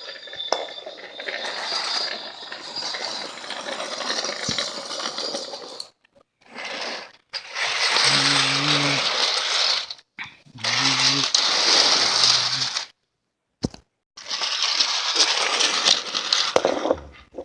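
Battery-powered toy train running on plastic track, rattling and clattering. From about six seconds in the sound comes in short stretches split by sudden cuts to silence, two of them with a low steady hum under the clatter.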